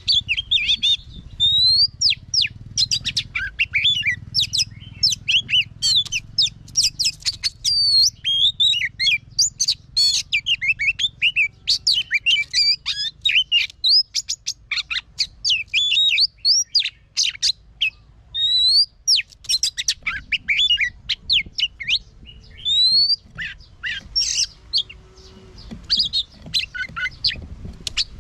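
Oriental magpie-robin singing a fast, varied song of rich whistles, rising and falling sweeps and sharp clicky notes, with only brief pauses.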